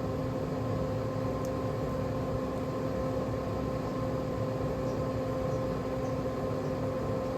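Traeger Scout portable pellet grill running, its fan making a steady hum with an even rush of air.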